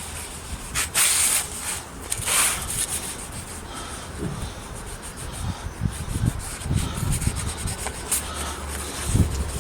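A cloth rubbing and scrubbing a wooden carving, wet with cleaner. There are two strong hissing strokes early on, then lighter scrubbing with low dull thuds in the second half.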